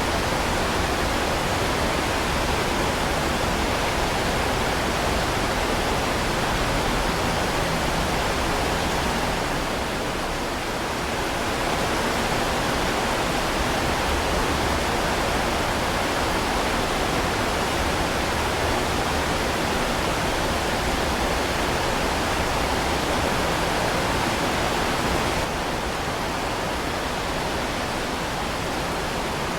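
Heavy rain falling in a steady, even hiss. It dips slightly about ten seconds in and turns a little quieter near the end.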